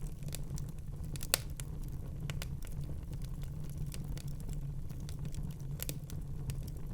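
Wood fire burning in a fireplace with a steady low rumble and irregular crackles and pops, the sharpest pop about a second in.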